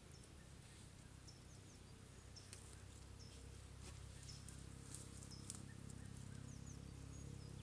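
Faint forest ambience: scattered short, high, falling chirps and a few sharp clicks over a low steady rumble.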